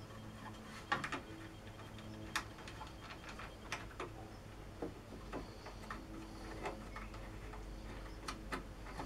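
Scattered light clicks and taps, irregularly spaced, from wood and fittings being handled on a table saw, over a faint steady low hum.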